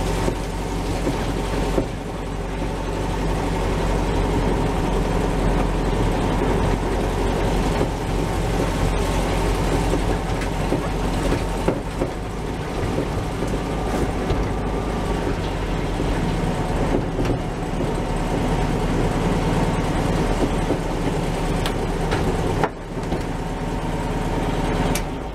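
Air-cooled VW Beetle engine running steadily, with a low rumble and an even hum throughout.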